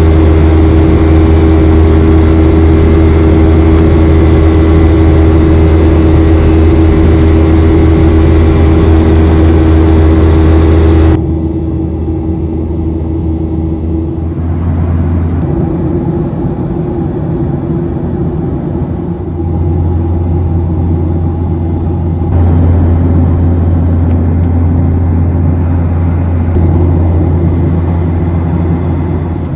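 Steady engine drone of a Boeing 737-800's CFM56 turbofans heard inside the cabin as it climbs after takeoff: a deep hum with a steady hum above it. About eleven seconds in the sound drops suddenly to a quieter, duller drone, and it shifts abruptly in level a few more times.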